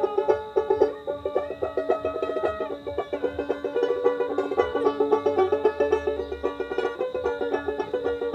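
Dotara, a fretless Bengali plucked lute, played in a fast run of short, bright plucked notes.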